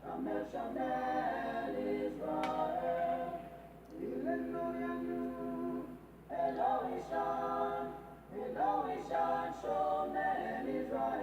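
Unaccompanied singing: a voice singing a slow song phrase by phrase, with long held notes and short breaks between lines.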